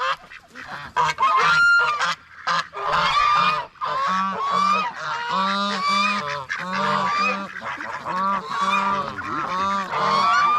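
Several geese honking over and over, their calls overlapping. The honking is broken at first, then continuous from about three seconds in.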